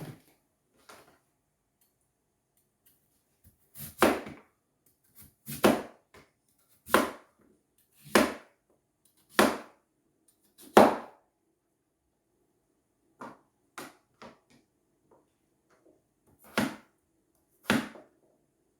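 Food being cut by hand on a board: a slow series of about a dozen cutting strokes, roughly one every second and a quarter, with a pause midway and two more strokes near the end.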